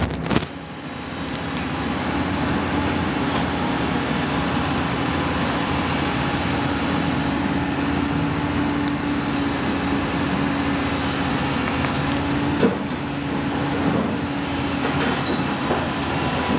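Heavy diesel machinery running steadily, with a steady low hum that fades out about thirteen seconds in and a few sharp knocks.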